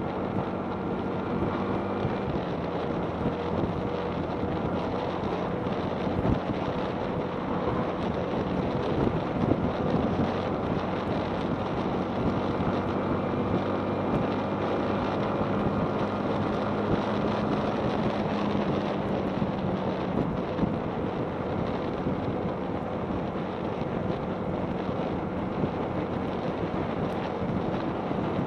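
Yamaha MT-15's 155 cc single-cylinder engine running under way, its note mostly held steady and shifting about two-thirds of the way through, with wind buffeting the microphone.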